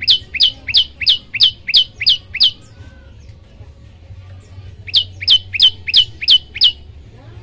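Prenjak lumut song: two fast series of sharp, high, downward-sweeping notes, about three a second. The first series stops about two and a half seconds in and the second starts about two seconds later.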